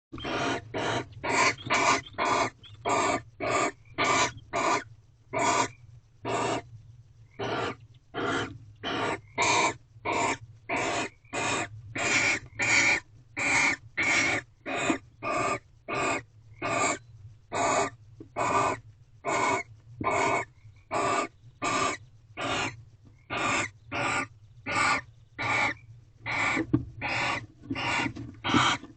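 Barn owl giving harsh, hissing screech calls over and over, each short and rasping, about three every two seconds, with one brief pause about seven seconds in.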